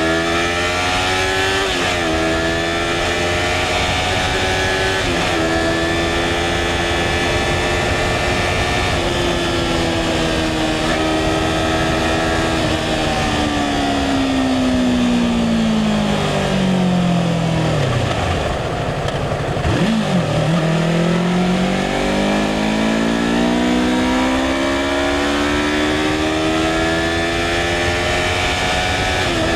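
2016 Yamaha R3's parallel-twin engine heard from the rider's seat, accelerating up through the gears with the pitch climbing and dropping at each shift, over steady wind noise. About halfway through the engine winds down, its pitch falling smoothly, then it pulls away again, climbing through the gears.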